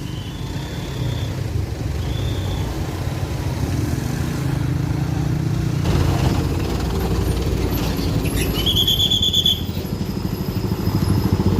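A stuck truck's engine running with a low, steady rumble that rises somewhat in the second half. Two short high squeals come early, and a louder squeal lasting about a second comes near the three-quarter mark.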